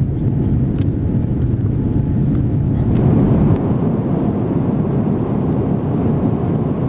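Steady low rumble of a jet airliner, engine and airflow noise with no distinct tones, turning a little brighter about three seconds in.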